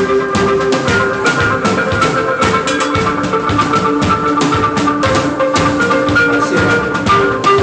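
Rock band playing an instrumental passage: a drum kit beating a busy, steady rhythm under sustained pitched notes, with no singing.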